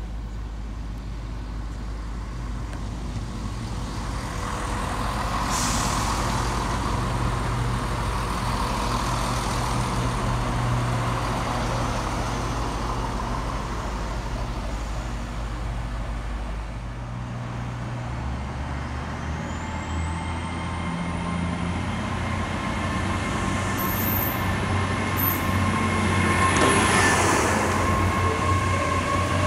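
Diesel train at a station platform, its engine running with a steady low drone. About two-thirds of the way through, the engine note changes and a high whine rises, and the sound grows louder near the end.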